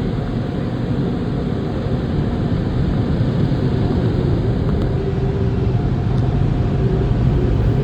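Car wash air dryer blowers blasting air over a car: a loud, steady rushing noise that grows slowly louder.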